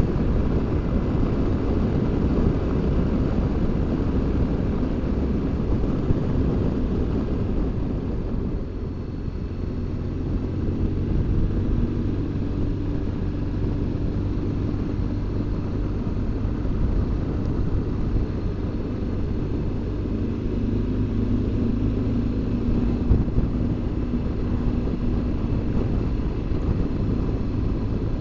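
BMW R1200GS Adventure boxer-twin motorcycle being ridden, heard from the rider: a steady low engine drone mixed with wind rush, easing off slightly around nine seconds in before settling back to a steady cruise.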